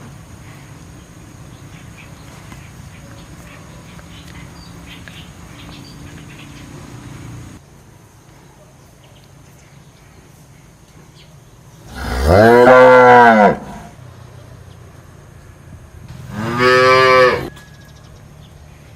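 Cow mooing twice: a loud call of about two seconds whose pitch rises and then falls, then a shorter call about three seconds later. Before the calls, a low steady hum runs and cuts off suddenly.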